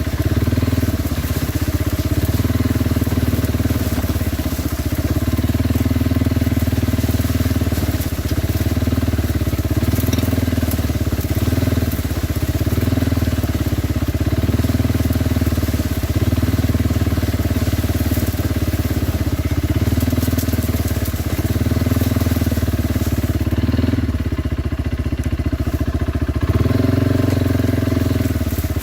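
Kawasaki Brute Force 300 ATV's single-cylinder four-stroke engine running steadily while riding, the engine note rising and falling slightly with the throttle and shifting near the end.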